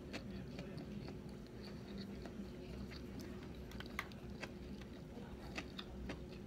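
A person chewing sushi with a closed mouth: soft, irregular little clicks and smacks, the sharpest about four seconds in, over a steady low room hum.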